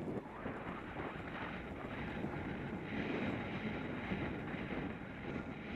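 Steady wind noise buffeting the microphone, an even rushing roar with no clear rhythm.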